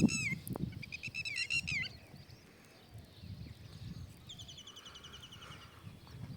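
Birds calling: quick series of ringing, arching notes at the start and again about a second in, then a fast trill of short even notes around four to five seconds in, over a low rumble.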